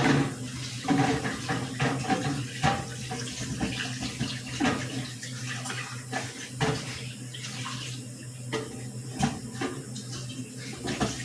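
Water running and splashing in a sink in uneven splashes as sliced banana heart is rinsed, over a steady low hum.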